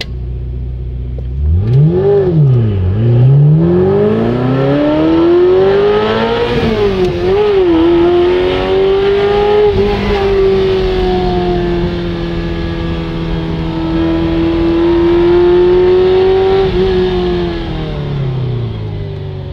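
Ferrari 348 ts's 3.4-litre V8 heard from inside the cabin. It idles steadily, then about a second and a half in revs hard as the car pulls away, drops sharply with a gear change, and climbs again. The revs then hold fairly steady and fall away near the end as the car slows.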